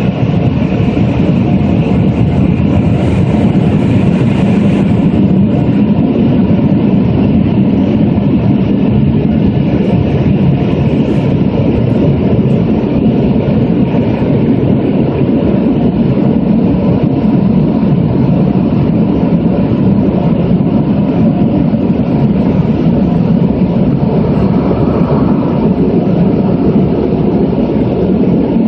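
Automatic car wash machinery running: a loud, steady, low-pitched churning noise without pauses.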